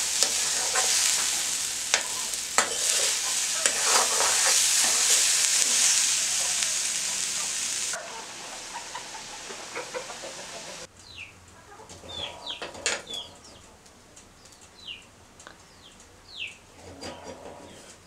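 Raw banana slices sizzling loudly as they fry in an iron wok, with a metal spoon stirring and scraping against the pan. The frying turns quieter about eight seconds in and stops about eleven seconds in, leaving chickens clucking and a few clinks of the spoon.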